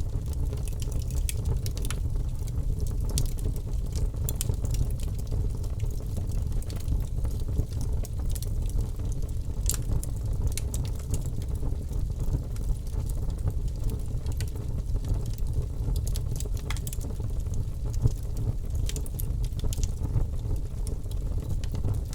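Fire burning in a fireplace: a steady low rumble with irregular sharp crackles and pops.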